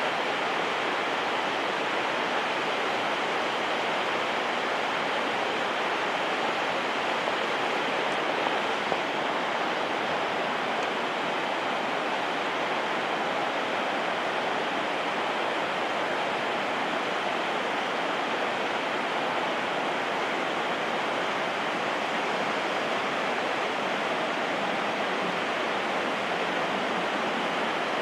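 Shirahige Falls pouring steadily into the river below: an even, unbroken rushing of falling water.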